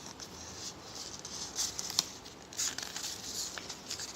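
Paper rustling, as when a picture book's pages are handled and turned: several soft rustles with a sharp click about two seconds in.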